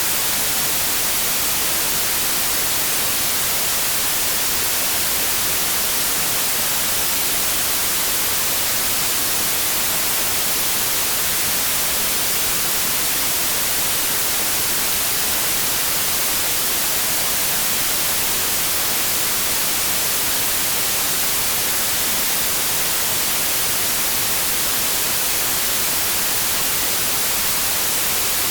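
Steady white noise: an even, unchanging hiss across the whole range, strongest in the highs.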